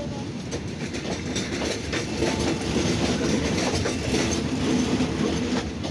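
Thai State Railway passenger coaches passing close at speed: a continuous rumble of steel wheels on the rails, with repeated clacks as the wheels cross rail joints.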